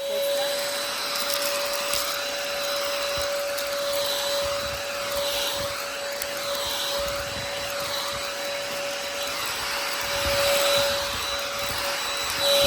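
Vactidy cordless stick vacuum running with a steady high motor whine over rushing air, the air noise swelling and fading over and over as the vacuum is moved back and forth.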